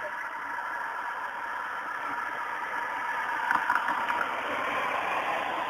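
A vehicle engine running steadily, slowly growing louder, with a brief clatter about three and a half seconds in.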